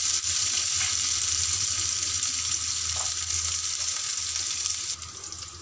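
Sliced onions, curry leaves, a dried red chilli and a tempering of mustard seeds and lentils sizzling in hot oil in a pan, with a few light strokes of a wooden spatula stirring them. The sizzle drops away sharply about five seconds in.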